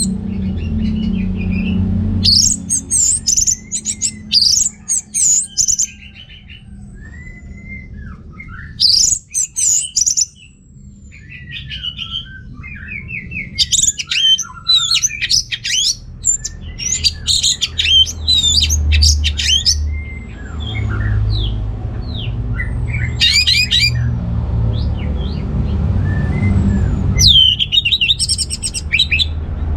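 Orange-headed thrush singing in repeated bursts of rapid, varied high phrases with short pauses between, over a steady low rumble.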